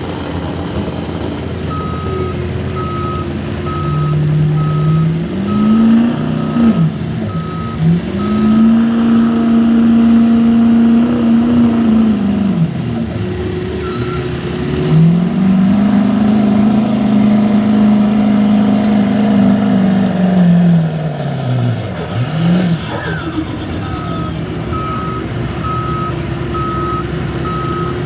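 A vehicle's reversing alarm beeps at an even pace. An engine then revs up and holds high twice, for several seconds each time, dropping back in between, and the beeping resumes near the end.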